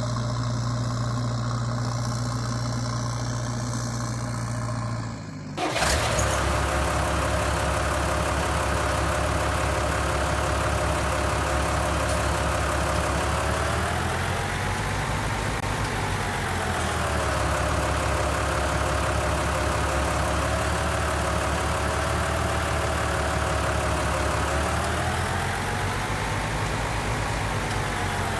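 An engine running steadily at idle. It changes abruptly a few seconds in, then continues with its pitch rising and falling twice, as if briefly given throttle.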